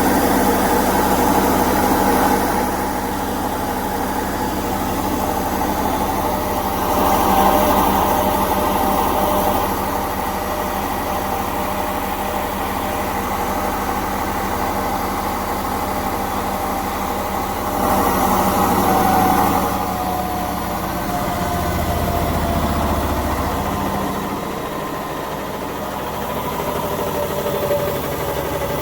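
Indesit 1400 washing machine running a spin: the drum motor whines and hums steadily while the drum spins, with swells of rushing, vibrating noise every several seconds. In the later part the motor's tone drifts slightly lower.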